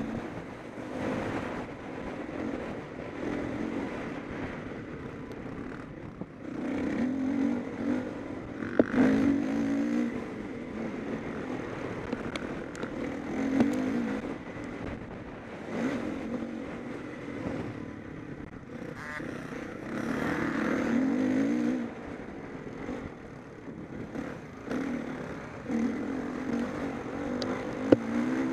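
Motocross bikes racing, engines revving hard and easing off in repeated bursts every couple of seconds as riders accelerate, with a few sharp knocks.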